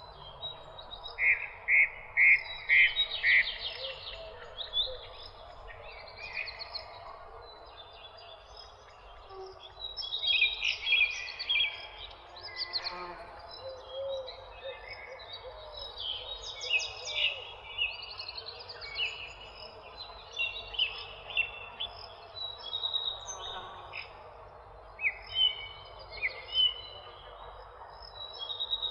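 Several songbirds chirping and singing in overlapping bursts of quick high notes and trills. A run of about five loud, evenly spaced chirps comes near the start, all over a steady faint background noise.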